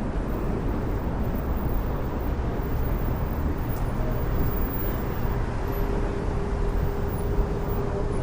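Street traffic: vehicles running past with a steady low rumble. From about four seconds in, a steady hum joins it.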